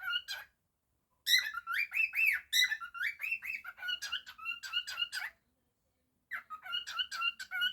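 Cockatiel whistling and chirping in quick runs of notes, some bending up and down in pitch. It breaks off twice into brief silence.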